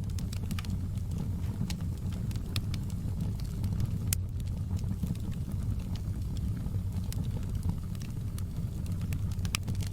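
Fireplace fire crackling: frequent sharp, irregular pops over a steady low rumble of the flames.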